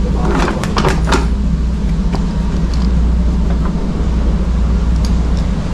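Chicago 'L' train car rumbling steadily as it runs on the rails, heard from inside the car, with a few brief clicks in the first second or so.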